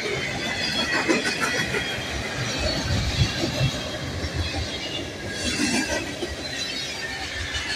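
Freight cars rolling past close by: a steady rumble of steel wheels on rail with irregular clacks and knocks, over a thin, high-pitched wheel squeal.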